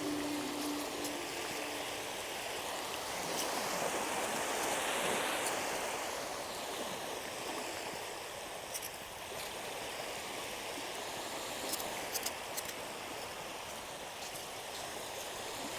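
Small sea waves washing onto a sandy beach in a steady hiss of surf. One wave swells and breaks a few seconds in, and a few faint clicks come later.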